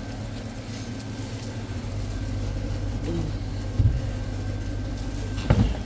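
A vehicle's engine running steadily, a low hum, with two short knocks about four and five and a half seconds in.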